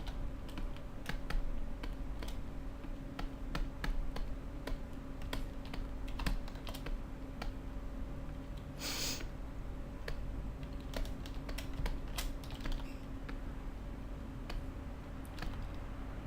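Computer keyboard keys clicking at an irregular pace, with a short hiss about nine seconds in and a faint steady hum underneath.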